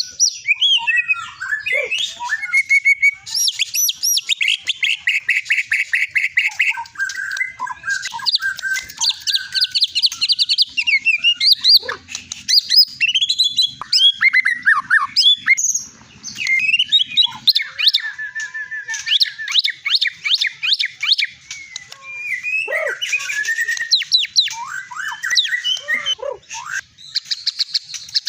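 White-rumped shama (murai batu, long-tailed Medan type) singing a long, varied song: clear whistled phrases, fast runs of repeated notes and harsher chattering bits, one phrase after another with short gaps. This is the rich, varied 'material' prized in competition songbirds.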